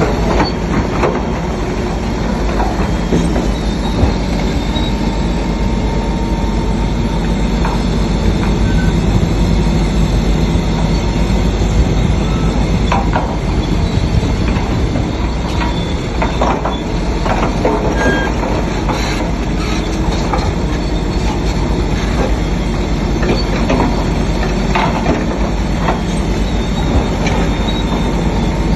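Shantui DH7C3 crawler bulldozer working: its diesel engine drones steadily under the clanking and squeaking of its steel track chains, with many sharp metallic clanks scattered throughout.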